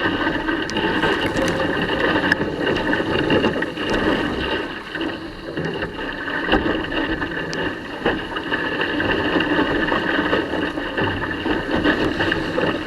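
Sailing dinghy under way in a strong breeze: water rushing and splashing along the hull, with wind buffeting the microphone and a few small clicks from the rig.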